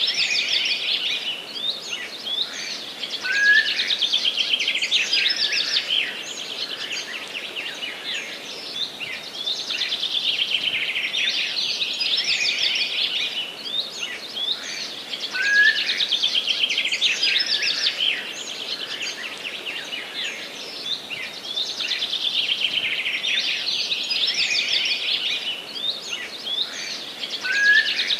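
Dense chorus of forest songbirds chirping and singing continuously, the same passage repeating about every twelve seconds as a loop.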